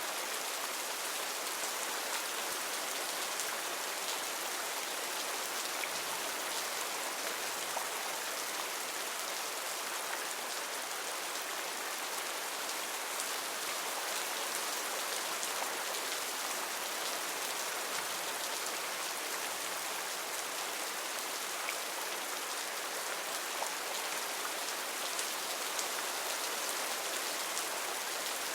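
Heavy rain falling steadily on foliage, a dense even hiss full of fine drop ticks.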